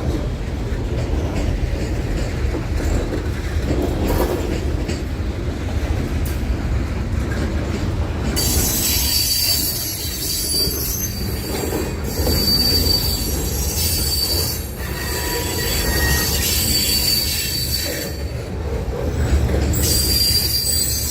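Train rolling past with a steady low rumble. About eight seconds in, a high, thin steel-wheel squeal starts; it drops out briefly near the end and comes back.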